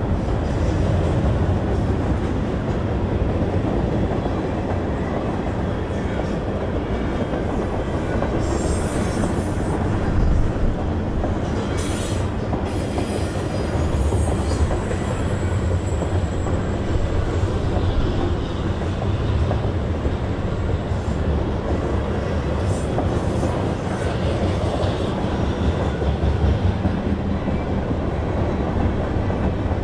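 Canadian National freight train's cars, lumber flatcars and covered hoppers, rolling past at speed: a steady heavy rumble of steel wheels on rail, with a thin high squeal from the wheels partway through.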